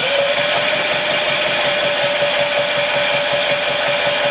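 Predator 5000 inverter generator's single-cylinder engine running steadily right after a remote electric start, with an even tone and a regular low pulse.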